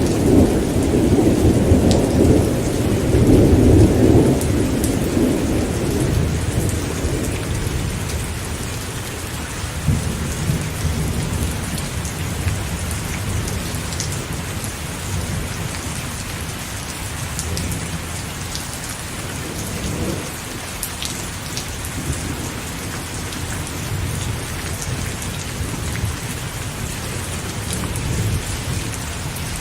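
Steady rain with rolling thunder. A long, loud rumble in the first few seconds fades out by about six seconds in, and fainter rumbles come and go after it under the rain.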